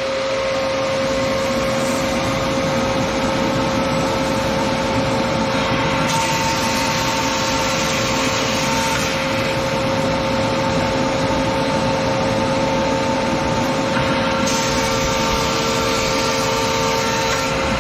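Grizzly G0815 15-inch planer fitted with a Shelix helical cutter head running together with a dust-collection vacuum, a loud steady whine over a rushing hiss. The hiss shifts in level about six seconds in and again near the end.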